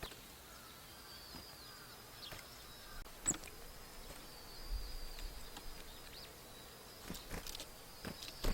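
Small songbirds calling with many short, high chirps that slide downward in pitch, mixed with scattered sharp taps.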